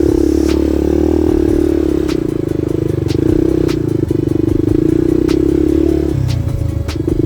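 Single-cylinder four-stroke trail motorcycle engine running at a steady throttle; the engine note drops briefly about six seconds in and again near the end. Scattered sharp clicks and rattles ride over it.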